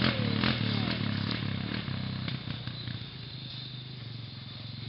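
A small vehicle engine running at steady low revs, fading over the first three seconds as it moves away, then holding faintly in the distance.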